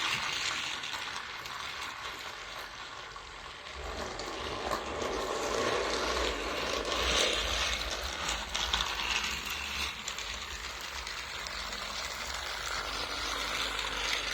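Battery-powered Thomas & Friends Ashima toy engine running along its plastic track: a steady motor whir with many small rattling clicks.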